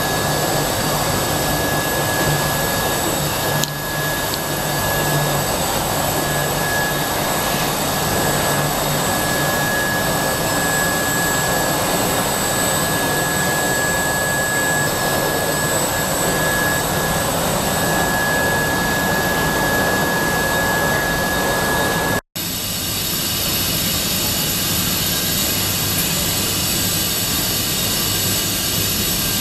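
Roll-fabric washing line running: a loud, steady machine noise with a steady high whine. About two-thirds through the sound cuts out for an instant, and after it the whine is gone.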